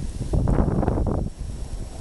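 Wind buffeting the microphone in irregular low gusts, strongest about half a second to a second in.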